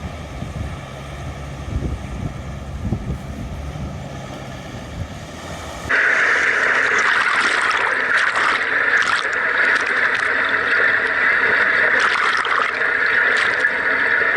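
Land Rover Defender's engine running at low revs, then about six seconds in a sudden change to loud, steady rushing and splashing water as the truck fords the river.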